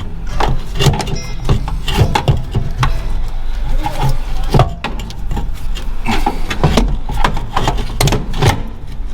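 Irregular knocks and clanks of hand tools on the truck's starter as it is worked loose from underneath, several a second, over a steady low hum.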